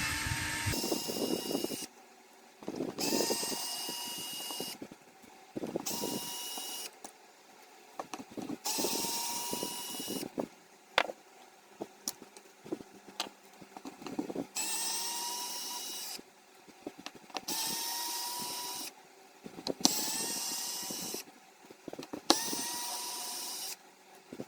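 Small power drill/driver running in about ten short bursts, each starting with a quick rising whine that levels off, as screws are backed out of an RC truck's chassis. A few sharp clicks fall between the bursts.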